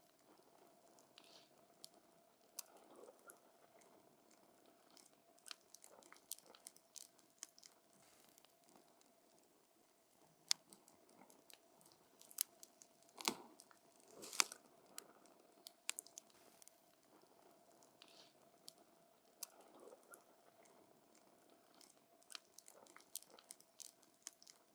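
Burning wood crackling and popping in a campfire: irregular sharp snaps, a few louder pops about halfway through, over a faint steady hum.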